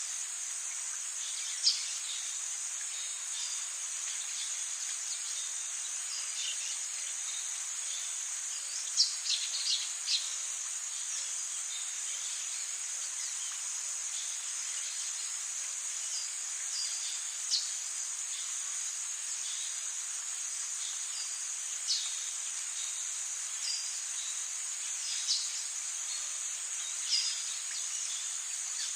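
Rainforest ambience: a steady, high-pitched insect chorus, with short chirping calls breaking in every few seconds, a quick cluster of them about a third of the way through.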